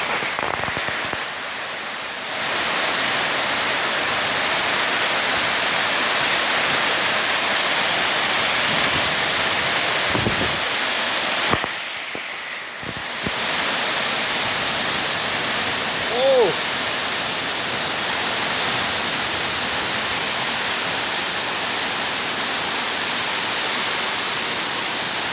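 Heavy rain and wind of a severe thunderstorm: a loud, steady rush of noise that eases briefly twice, about two seconds in and again about twelve seconds in. A short pitched squeal cuts through about sixteen seconds in.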